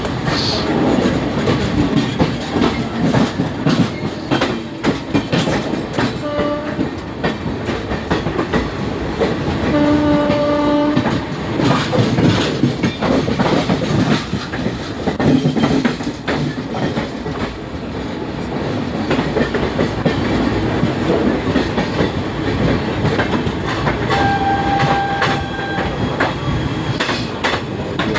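Train running on the rails, with a steady rumble and the clickety-clack of wheels over rail joints. Short horn notes sound a few times, the clearest about ten seconds in and again near the end.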